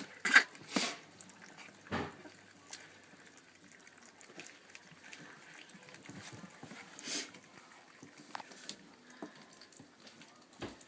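Young chocolate Labrador puppies eating from a shared food bowl: many small irregular lapping and chewing noises, with a few louder knocks in the first second.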